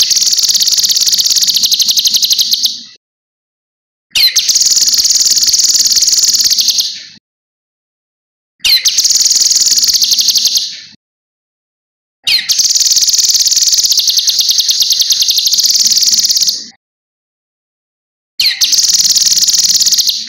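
Cucak kinoi singing: high-pitched bouts of a fast, rapidly repeated chattering trill, each lasting two to four seconds. Five bouts come one after another with short silent gaps between them.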